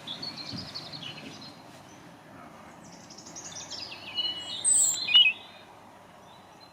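Wild birds singing and calling: a run of high, thin chirping notes that grows busier and louder about four to five seconds in.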